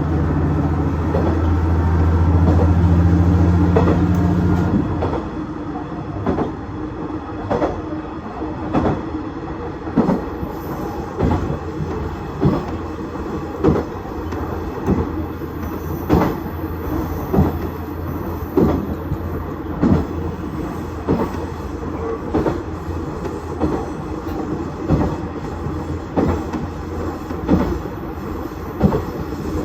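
KiHa 110-series diesel railcar running on jointed track. The diesel engine drones under power for the first few seconds, then eases off, leaving the wheels clicking over the rail joints about once a second.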